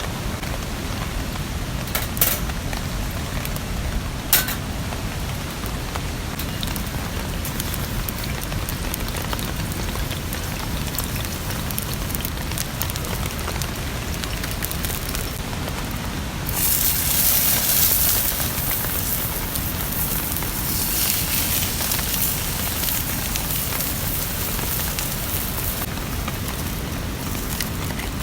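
Steady rain falling, with two sharp snaps a few seconds in. About two-thirds of the way through, a louder hiss swells for a few seconds, eases, then comes back.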